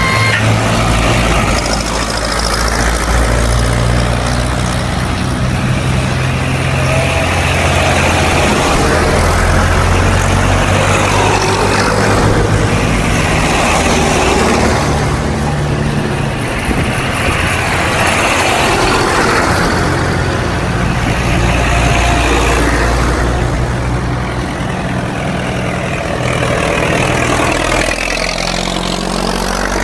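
Tractor engines running as tractors drive past one after another. The low engine tones shift every few seconds as each one comes and goes.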